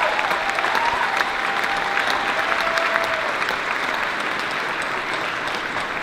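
Large audience clapping, with a few held tones sounding over it in the first few seconds. The applause slowly thins out toward the end.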